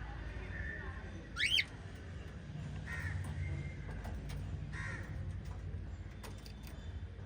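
Pet cockatiels calling: one loud, fast rising whistle about a second and a half in, then short harsh squawks around three and five seconds in, over a low steady hum.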